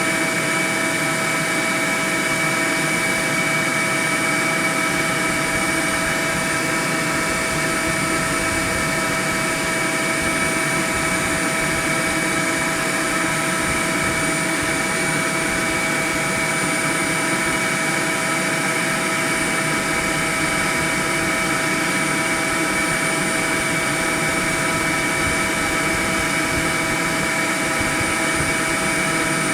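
Swarm of honeybees buzzing: a dense, steady hum made of many wingbeats, unbroken throughout.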